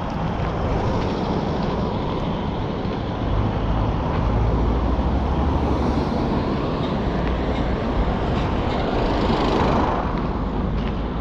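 A motor vehicle passing on the road, a rumbling noise of engine and tyres that swells over several seconds and fades near the end.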